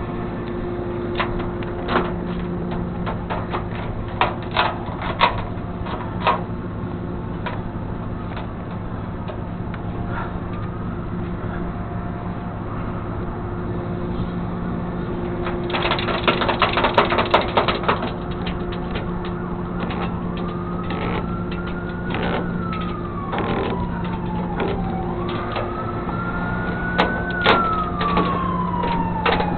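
A vehicle engine idling steadily under scattered clicks and clanks, with a short burst of rattling about halfway through. Over the last ten seconds a siren wails, rising and falling in slow sweeps.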